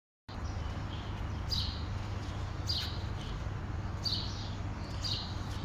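A small bird chirping: short, high, downward-slurred chirps repeating about once a second, over a steady low rumble.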